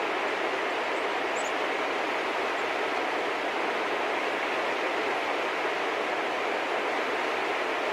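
Steady, even rushing outdoor background noise, like a distant roar or wind, with a couple of faint, brief high bird chirps about a second and a half in.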